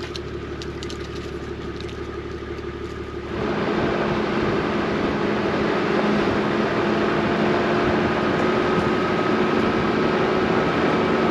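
A 4WD vehicle driving on a dirt track: a steady engine hum with tyre and road noise. About three seconds in, the sound suddenly gets louder and rougher and stays that way.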